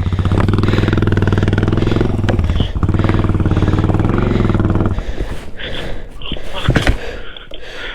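Suzuki DR650 dual-sport motorcycle's single-cylinder engine running at low speed, then cutting out about five seconds in as the bike stalls.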